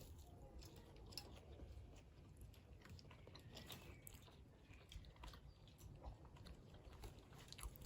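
Faint chewing and mouth sounds of people eating sausages, with scattered soft clicks.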